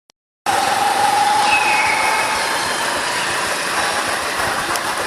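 Wind rushing over the microphone and road noise from a moving motorbike, starting abruptly about half a second in, with a steady high whine over the first two seconds.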